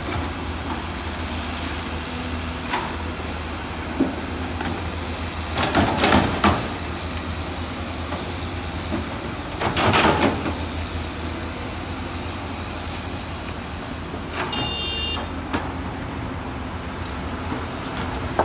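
Heavy diesel construction machinery running steadily, with two louder, noisy surges about 6 and 10 seconds in and a brief high-pitched squeal about three-quarters of the way through.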